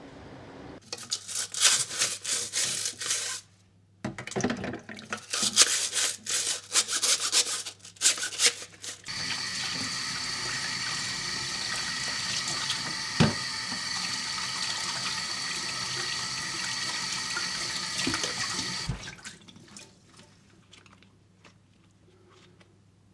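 Kitchen tap water running and splashing in choppy spells, then flowing in a steady stream for about ten seconds before it is turned off.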